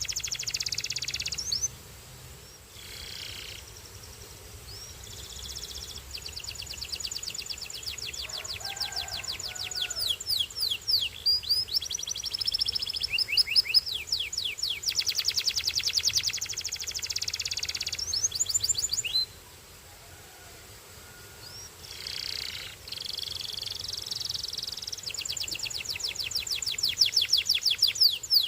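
Domestic canary singing: long phrases of fast trills, each a rapid run of repeated high notes, some sliding in pitch, broken by short pauses.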